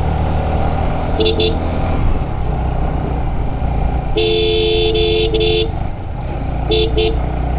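Motorcycle riding with its engine running steadily while a horn sounds: a short beep about a second in, a long honk of about a second and a half a little past the middle, then two quick beeps near the end.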